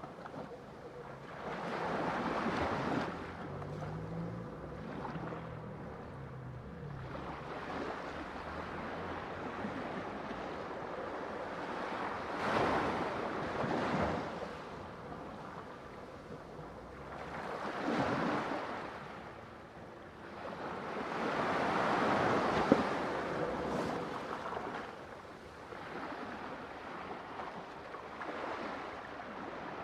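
Ocean waves breaking on a shore, the surf swelling and receding in several long surges, loudest about two-thirds of the way through.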